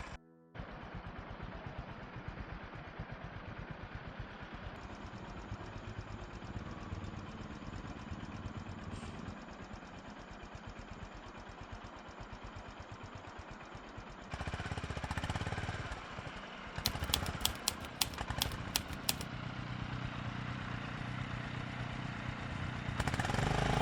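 Motorcycle engine running at low speed, its firing pulses steady. About two-thirds of the way through the noise grows louder, and a quick run of sharp clacks follows.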